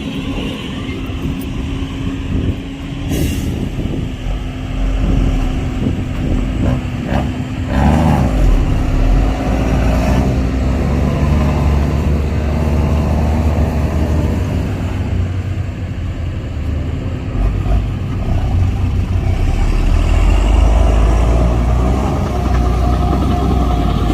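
Heavy diesel dump truck engine running, getting louder in stretches, with a short air hiss about three seconds in.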